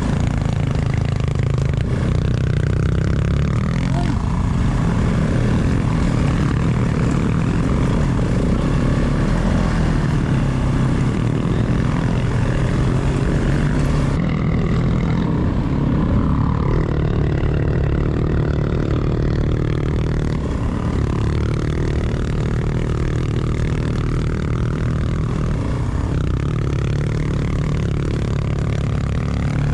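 Adventure motorcycle engine running steadily while riding, with a steady rush of wind and road noise.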